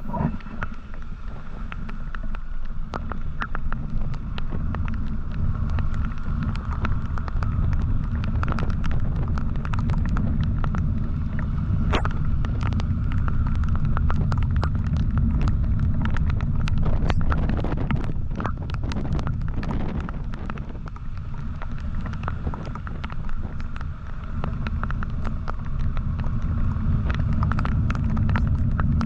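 Motorcycle on the move, with a dense low rumble of wind buffeting the microphone and road noise, a steady engine note, and scattered sharp crackles.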